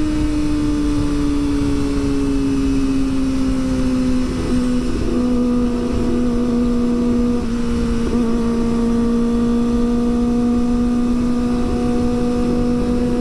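Kawasaki ZX25R's 249 cc inline-four engine running at high revs under way, its pitch easing down over the first few seconds and then holding steady. Wind rush on the helmet-mounted camera runs underneath.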